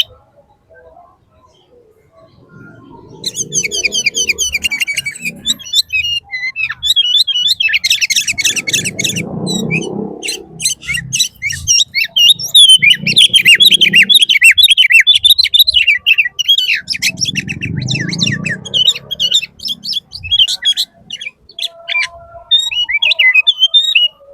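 Small bird chirping and twittering in quick, high runs of notes, starting about two seconds in. A low rumbling noise comes and goes underneath four times.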